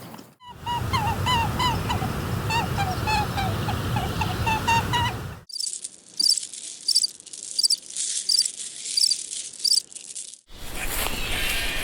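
A flock of geese honking: many short, overlapping calls. At about five and a half seconds it cuts to a small bird chirping high, short double notes repeated about every half second, before another cut near the end.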